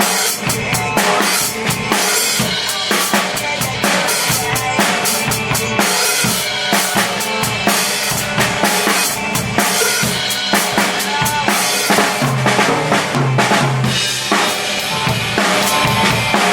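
Drum kit played along with a song's backing track: busy kick, snare and cymbal hits without a break, over the band's bass and guitars.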